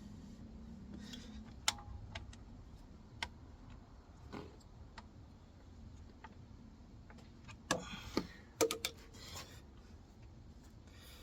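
Scattered sharp clicks and knocks with some rubbing, from hand work on the car's belt drive. A cluster of several knocks comes about eight seconds in.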